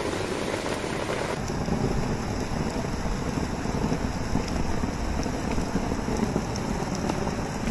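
Heavy rain pouring steadily, a dense even hiss with a low rumble under it; the high end of the hiss turns duller abruptly about a second and a half in.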